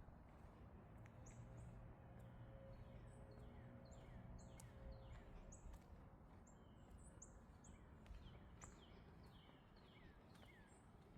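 Faint bird calls: a string of short, high chirps, each sliding downward in pitch, repeated irregularly throughout, over faint outdoor background noise.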